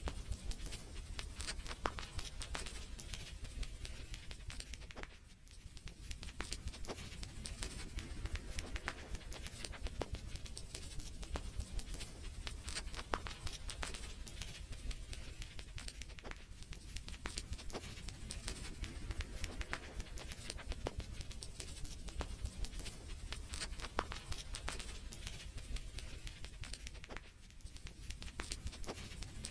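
Wood fire crackling: dense, irregular pops and snaps over a low steady rumble, thinning out briefly about five seconds in and again near the end.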